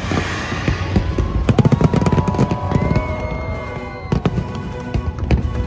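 Fireworks going off in quick, repeated bangs and crackles over a music soundtrack and a low rumble. A steady high tone slides in about a second and a half in and cuts off at about four seconds.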